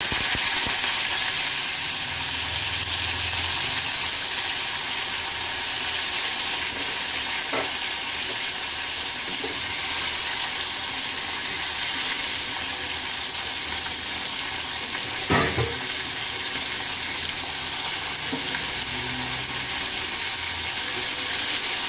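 Small fish sizzling steadily as they shallow-fry in hot oil in a pan. Two brief knocks come through, about a third and two thirds of the way in.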